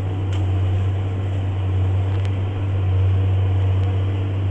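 JCB Fastrac 8250 tractor's diesel engine running steadily while ploughing, a constant low drone.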